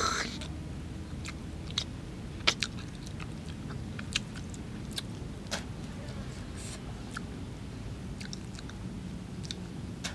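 A person chewing grilled fish with lip-smacking, and scattered sharp mouth clicks every second or so, the loudest right at the start.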